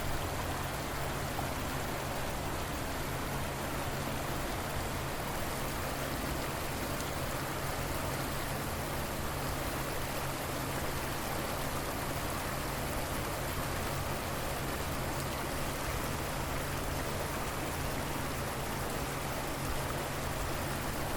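River water flowing: a steady, even rush of water with no change.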